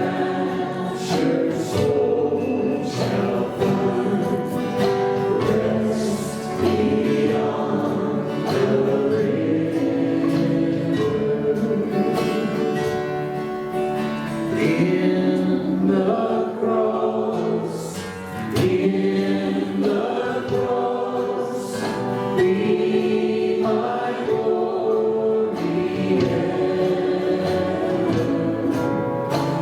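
A congregation singing a hymn with instrumental accompaniment, many voices holding long notes together.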